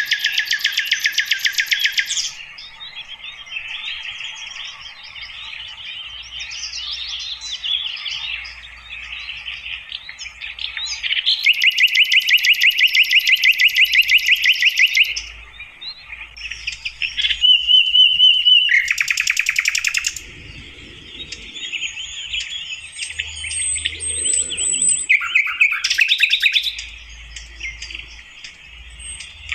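Sikatan londo flycatcher singing: loud, rapid trills of fast-repeated notes alternate with softer twittering phrases. There is a brief steady whistle just past the middle and thin high notes later on.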